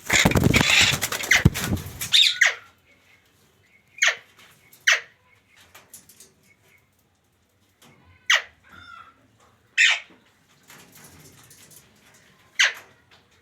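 Pet parrot giving six short, sharp squawks, each dropping steeply in pitch, spaced one to three seconds apart. They follow a loud scuffling, rustling noise that lasts about two seconds at the start.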